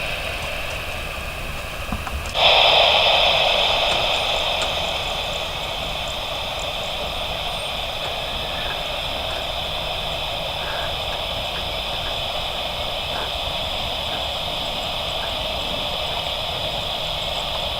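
Air traffic control radio hissing with static on an open channel with no one talking. The hiss jumps louder about two seconds in, eases off, then holds steady.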